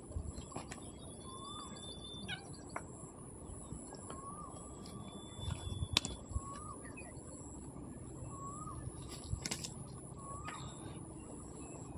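Birds calling: a short, upward-bending call repeated about every second and a half, with a higher drawn-out whistle twice. A few sharp clicks stand out over a steady low background hiss.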